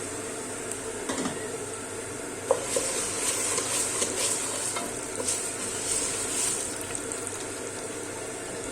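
Food frying with a steady sizzle while a spoon stirs and scrapes around the pot, the scraping strokes coming thickest in the middle of the stretch.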